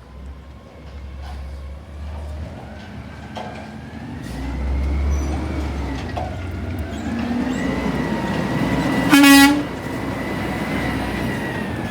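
Street traffic with a vehicle engine rumbling and an emergency siren wailing slowly up and down, and a short, loud horn blast about nine seconds in.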